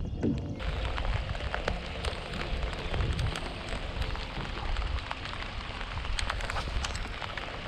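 Rain falling: a steady hiss with many scattered sharp drop ticks, coming in abruptly a little over half a second in, over a low rumble.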